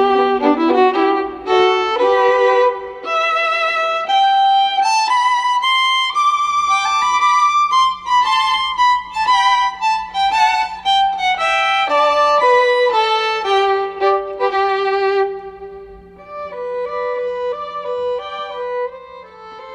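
Background music: a solo violin melody with vibrato, the notes stepping up and down, growing quieter about three-quarters of the way through.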